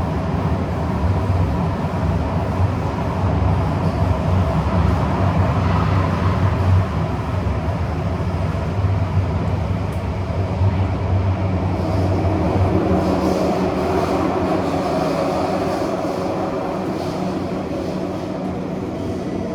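Interior of a Kawasaki–CRRC Sifang CT251 metro car running between stations: a loud, steady low rumble of wheels and running gear. The train's wheels are rated by the recordist as devastatingly flat. A higher tone joins in about two thirds of the way through.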